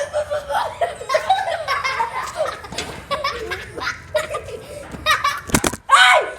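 Group of young people laughing hard together, with a sharp knock about five and a half seconds in followed by a high cry.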